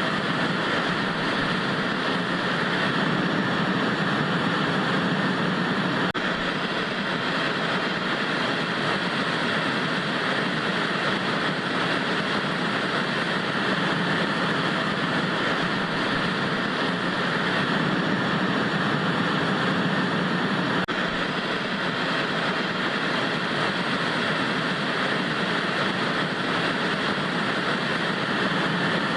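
Television static: a steady, even hiss of white noise with no change in level or pitch.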